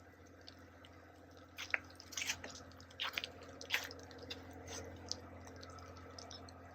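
Footsteps crunching in fresh snow: a string of irregular soft crunches and crackles from about a second and a half in, fading out after five seconds, over a faint steady low hum.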